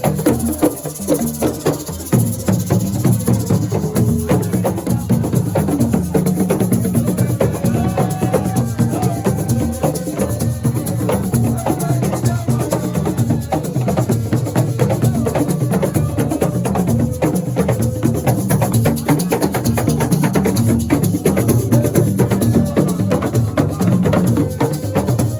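Live assiko percussion music: a dense, fast, steady rhythm of sharp drum strokes.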